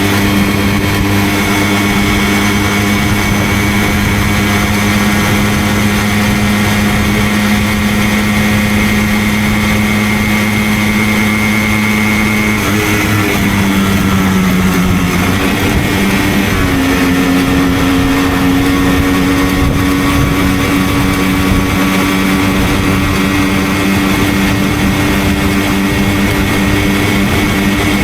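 Simson moped's single-cylinder two-stroke engine running under way at steady revs. A little under halfway through its pitch wavers and dips for a few seconds, then it settles at a new steady pitch.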